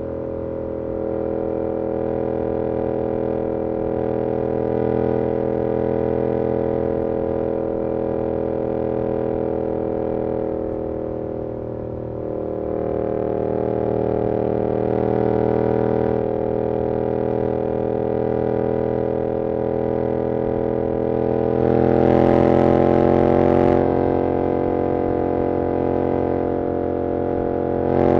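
2022 Yamaha R7's 689cc parallel-twin engine through an SC-Project CR-T exhaust, running under steady throttle on the road with a droning note. About 22 seconds in, the pitch rises and the sound gets louder for a couple of seconds as the throttle opens, then settles.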